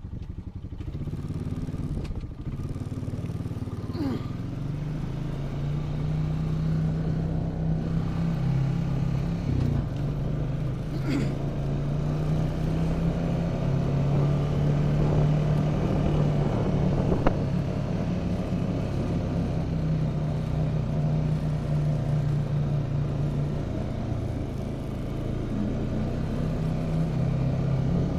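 A motor vehicle's engine running at a steady speed while travelling, a continuous low drone that holds its pitch.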